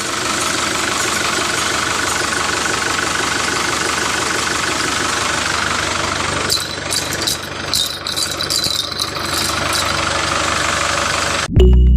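A small motor runs steadily with a fast rattling pulse, and sharper clicks and rattles join in a little past halfway. Near the end it cuts off abruptly and music begins.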